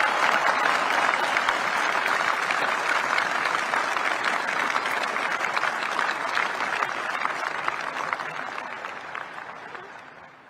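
Large audience applauding in a long, steady round of clapping that fades away near the end.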